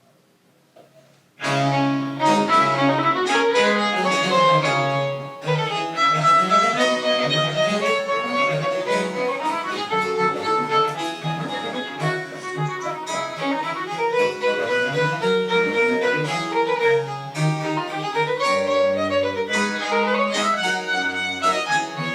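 After about a second and a half of near silence, a Baroque chamber ensemble starts playing: a violin carries the melody over a low bowed-string bass line, and the music continues without a break.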